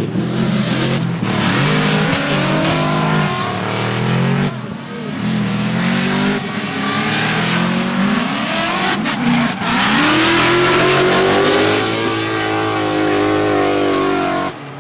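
Drift car engine revving hard, its pitch climbing and falling again and again, then held high for a few seconds near the end, with tyre squeal over it. It cuts off abruptly at the end.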